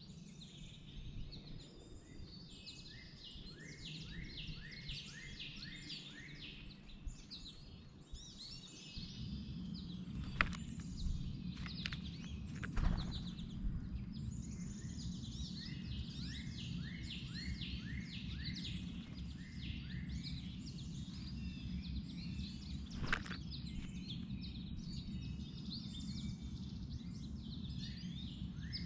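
Wild songbirds singing, with many short down-slurred notes repeated in series over a steady low background noise that grows louder about a third of the way in. A few sharp taps stand out.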